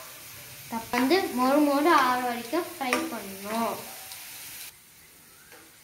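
Potato strips frying in oil in a pan, sizzling as they are stirred with a metal slotted spoon, with a voice speaking over it in the middle. The sizzling cuts off abruptly about three-quarters of the way through.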